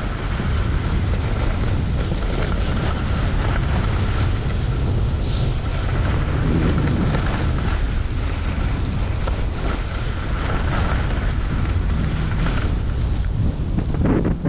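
Wind rushing over the microphone while skiing downhill: a loud, steady rush with a heavy low rumble.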